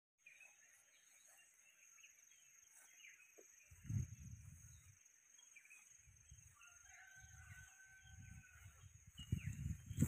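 Birds calling: scattered short chirps and, about seven seconds in, one longer held call of about a second, over a steady faint high hiss. Low rumbling bumps on the microphone, about four seconds in and again near the end, are the loudest sounds.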